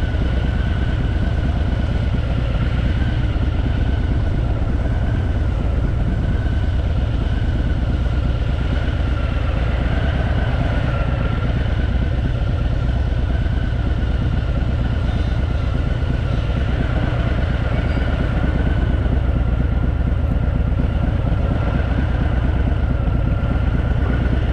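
Harley-Davidson Fat Boy's air-cooled V-twin engine running steadily while the motorcycle is ridden, with no rise or fall in revs.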